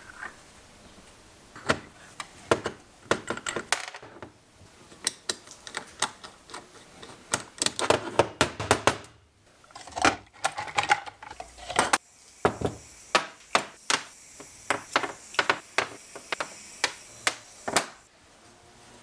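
Many sharp clicks and clatters of hand tools and small metal parts being handled during workshop work on a moped, irregular at first, then a quicker, more even run of taps near the end.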